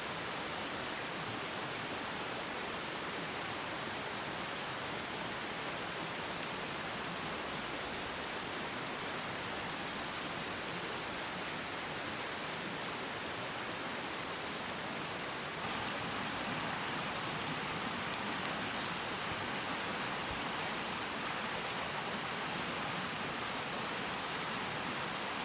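Steady rushing noise with no distinct events, getting slightly louder about 15 seconds in.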